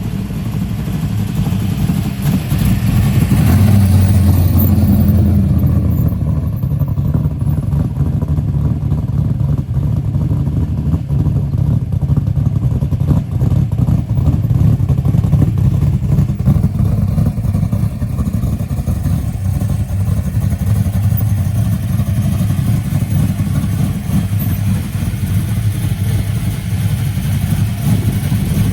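Muscle car engines with a deep, steady low rumble. The sound swells about three to five seconds in, as an engine revs or a car moves nearby, then settles back to a steady idle rumble.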